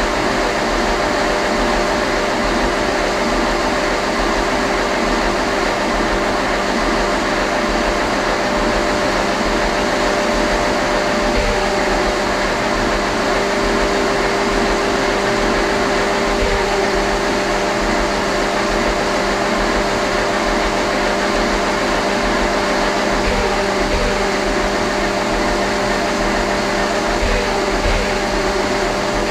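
Eicher Wotan's six-cylinder air-cooled diesel engine running steadily, with a constant even drone and hum, on its first run after a full rebuild.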